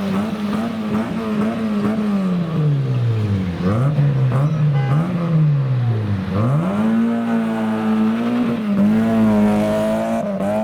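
Modified car engine pulling away on a wet road: a steady engine note drops off about two to three seconds in, blips a couple of times, then rises sharply as the car accelerates hard around six seconds in and holds high.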